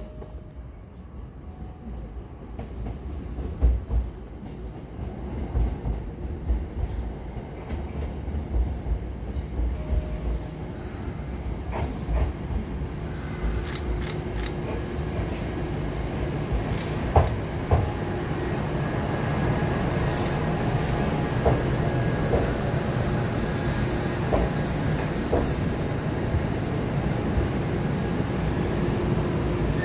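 Kintetsu 8000 series electric train approaching and growing steadily louder over about twenty seconds, with scattered clicks and knocks from the wheels. A high wheel squeal comes in about twenty seconds in, as the train runs close by.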